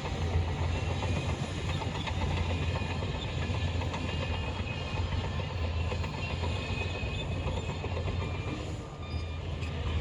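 Shantui crawler bulldozer working, its diesel engine running steadily under the continuous clanking clatter of its steel tracks, easing off briefly near the end.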